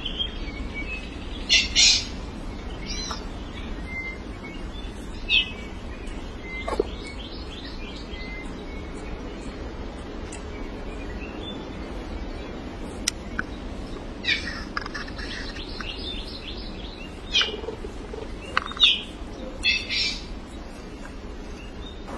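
Songbirds chirping and calling, with short sharp chirps and a rapid trill of repeated notes in the middle, over a steady low background hiss.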